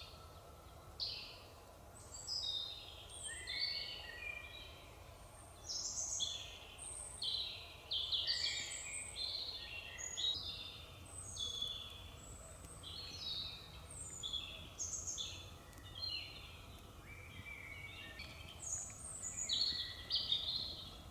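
Several songbirds singing and chirping, with many short, overlapping high calls and trills throughout, over a faint steady background hiss of the forest.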